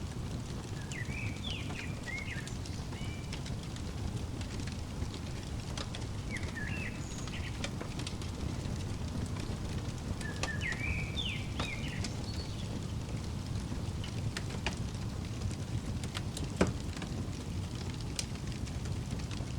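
Crackling fireplace: a steady low rumble of the fire with scattered pops and one louder snap about two-thirds of the way through. A small bird chirps in three short bursts in the first twelve seconds.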